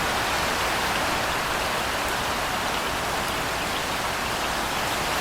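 Steady rain falling: an even, unbroken hiss with no separate thunder claps or gusts.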